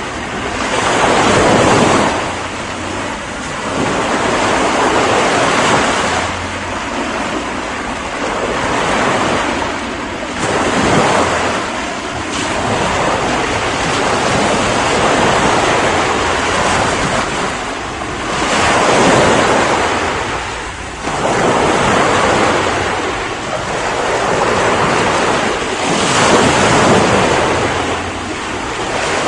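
Ocean waves breaking on a shore, the surf swelling and easing every few seconds in a continuous hiss.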